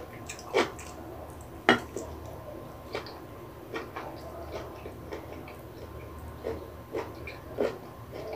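Close-miked chewing of a mouthful of kimbap: irregular wet clicks and smacks of the mouth, a few sharper ones in the first three seconds, softer ones after.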